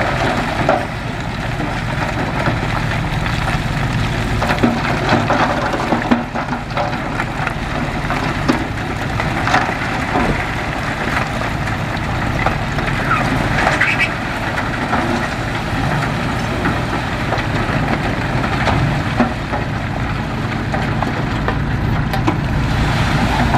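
Heavy diesel earthmoving machinery running steadily under load, a deep, even engine hum with scattered clanks and knocks through it.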